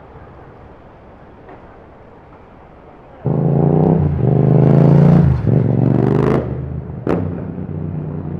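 A motorcycle engine starts revving loudly about three seconds in, blipping up and down in pitch a few times before settling. There is a sharp pop about seven seconds in, over a low street rumble.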